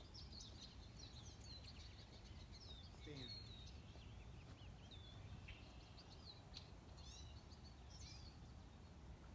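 Faint chirping and calls of small birds, many short rising and falling notes, over a low steady background rumble.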